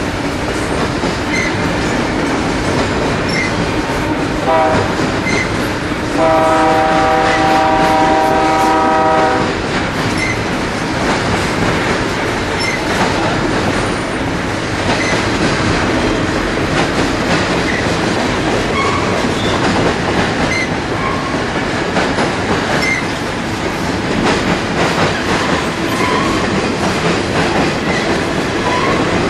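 Freight train rolling past with a steady rumble and clatter of wheels on rail. A diesel locomotive's multi-chime air horn gives a short blip about four seconds in, then a longer blast of about three seconds.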